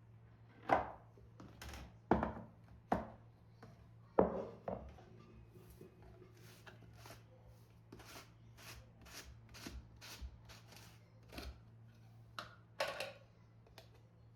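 A knife chopping on a cutting board. There are a few heavier knocks in the first five seconds, then a run of lighter, even cuts at about two to three a second, and a louder pair of knocks near the end.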